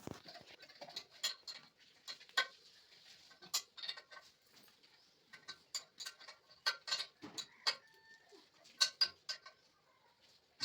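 Irregular light taps and clicks of hand tools and fittings being handled and struck during plumbing work, some with a brief metallic ring.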